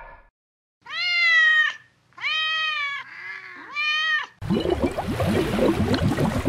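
Domestic cat meowing four times, each meow rising and then falling in pitch, the third one quieter and shorter. About four and a half seconds in, a loud, rough, noisy sound takes over.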